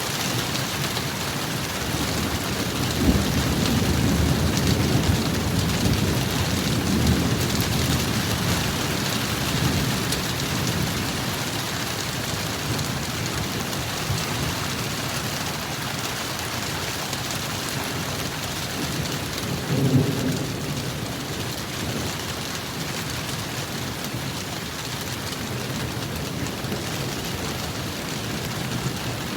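Heavy rain falling steadily, with a long rumble of thunder from about three to ten seconds in and a shorter, sharper rumble about twenty seconds in.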